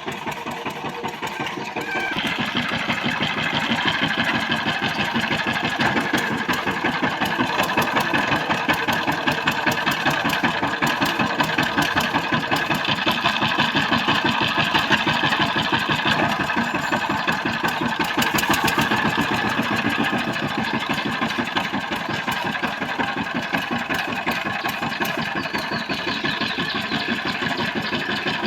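Power tiller's single-cylinder diesel engine running with a fast, even chugging beat; it picks up and gets louder about two seconds in, then runs on steadily.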